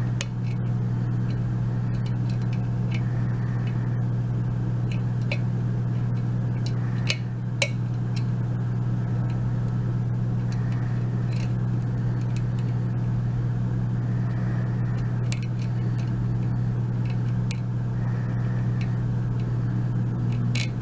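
A steady low hum throughout, with scattered faint clicks of a lock pick working the pins inside an Abus euro cylinder.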